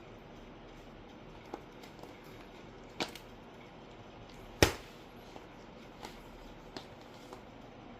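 A few sharp clicks and knocks at irregular intervals, the loudest about four and a half seconds in, over a faint steady hiss.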